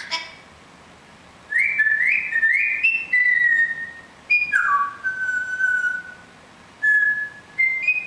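A parrot whistling a phrase: three short notes that each slide up in pitch, stepping higher one after another, then a long note that drops and holds. A few short whistles follow near the end.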